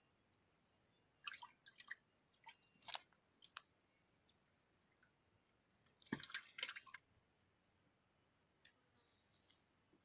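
Near silence broken by faint, scattered clicks and ticks: a loose group about a second in and a denser cluster about six seconds in.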